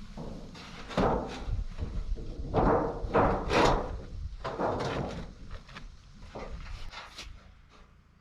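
Irregular knocks, thuds and scraping clatters from demolition work on a camper's rotted wood, about half a dozen spread over several seconds, the loudest in the first half.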